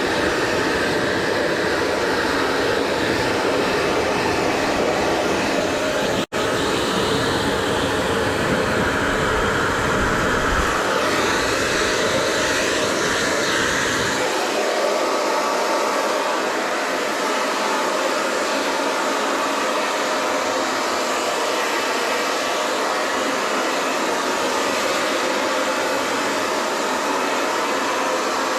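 Hair dryer blowing steadily, a dense even rush of air. A deep rumble underneath drops away about halfway through, and the sound cuts out for an instant about six seconds in.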